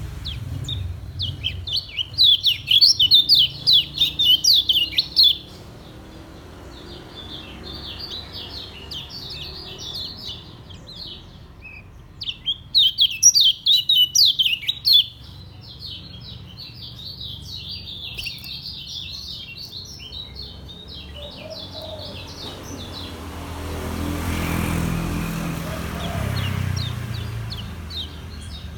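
Kecial kuning (a white-eye) singing in rapid-fire 'ngejos' bursts: two loud runs of fast, high chirps, with softer chirping in between.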